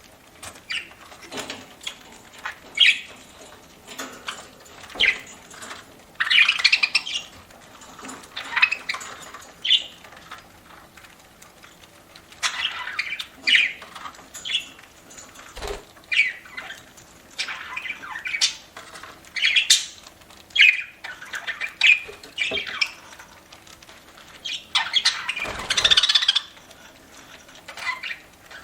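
Pet budgerigars chirping and squawking in many short, irregular calls, with a few sharp clicks among them.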